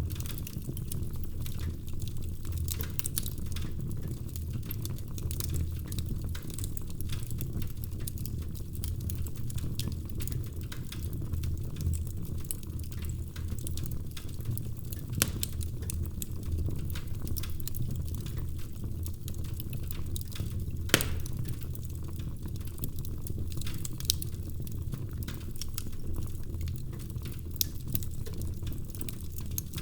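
Wood fire crackling in a fireplace: a low steady rumble of flames under frequent small pops and ticks, with a few louder snaps, the sharpest about two-thirds of the way through.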